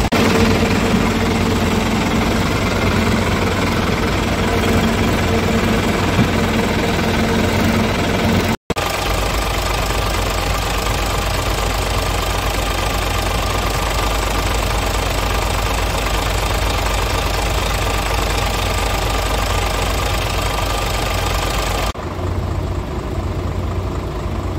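Scania R450's 13-litre inline-six diesel engine idling steadily with a diesel knock. The sound drops out for an instant about a third of the way in, and near the end the higher sounds fall away.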